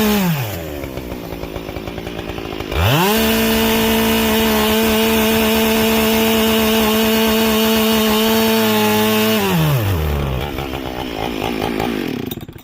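Husqvarna 572 XP two-stroke chainsaw with a carbide chain. It drops from full throttle to idle, is revved back up to full throttle about three seconds in and held there, then falls back to idle and stops abruptly at the very end.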